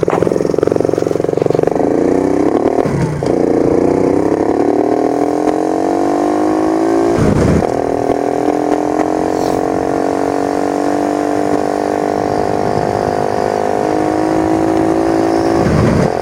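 Motorcycle engine accelerating through the gears, its pitch climbing and then dropping at gear changes about 3 and 7.5 seconds in, then running at a nearly steady pitch with a small rise near the end.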